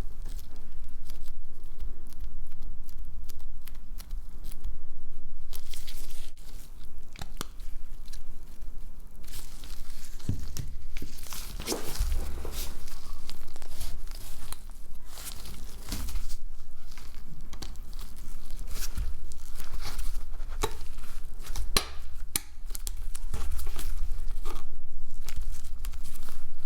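Close-up handling noise of a smartphone being taken apart: irregular clicks, scrapes and crinkling from hands and small tools on the phone's parts, over a steady low hum.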